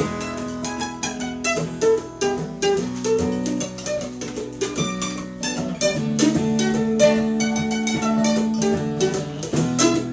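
Acoustic plucked string instruments playing an instrumental break: quick picked notes over held chords.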